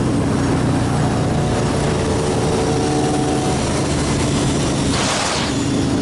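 Motorcycle engine running steadily under way, its pitch climbing slightly for a couple of seconds, with a gust of wind rushing over the microphone about five seconds in.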